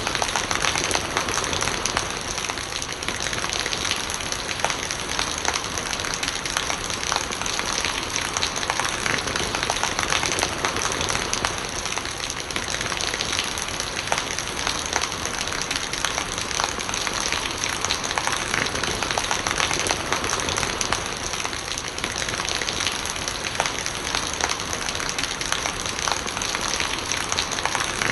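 Steady rain with a dense patter of drops hitting surfaces, and rainwater running and gurgling.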